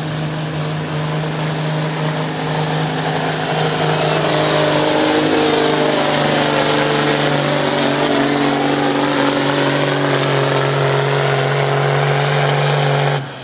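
Semi truck's diesel engine pulling the weight sled under heavy load, held at steady revs the whole way, then cutting back abruptly at the very end as the pull finishes.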